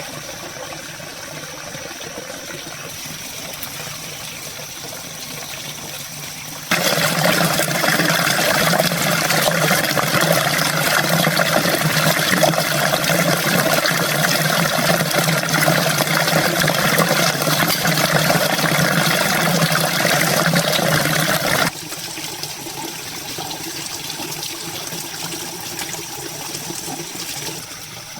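Running water, a steady splashing rush that jumps suddenly louder about seven seconds in and drops back just as suddenly about fifteen seconds later.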